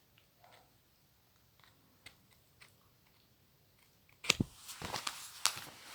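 A few faint small clicks, then about four seconds in a knock followed by crackly rustling and sharp clicks: a book and its paper or plastic wrapping being handled.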